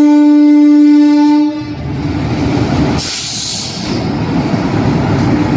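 Indian Railways train horn sounding one steady, loud tone that cuts off about a second and a half in, followed by the rumble of the train running past, with a brief hiss about three seconds in.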